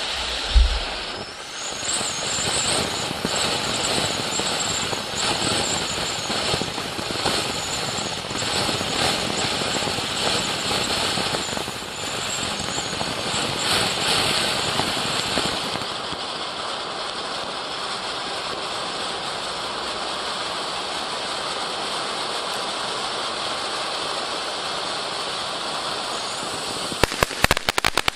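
A 200 g "Royal Ballet" consumer firework fountain spraying with a loud steady hiss, with one sharp bang about half a second in. High whistling tones rise and fall over the hiss for roughly the first half, and rapid crackling sets in near the end.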